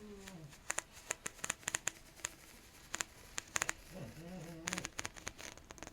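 Collapsible tube scratched and popped close to the microphone: a quick run of sharp clicks and pops. A low, wavering squeak ends just after the start and comes again about four seconds in.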